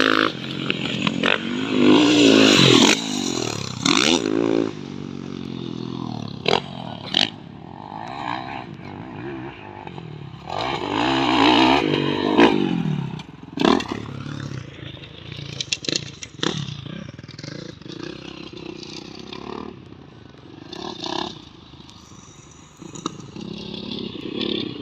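Motocross dirt bikes passing, their engines revving up and falling away as they go by, loudest about two seconds in and again around eleven to thirteen seconds in. Short sharp clicks and clatter come in between.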